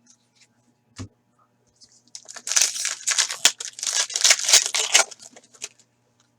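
A 2015-16 Upper Deck Series 1 hockey card pack being torn open, its foil wrapper tearing and crinkling for about three and a half seconds. There is a single click about a second in.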